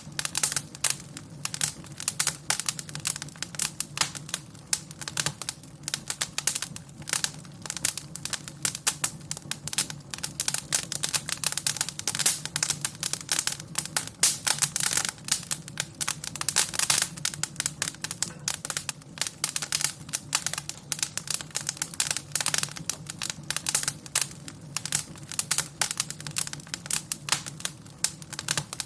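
Wood fire crackling in a fireplace, with dense, irregular sharp snaps and pops over a low steady hum.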